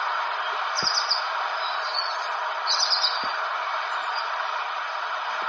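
Bird-like chirps, short quick trills heard twice, over a steady hiss.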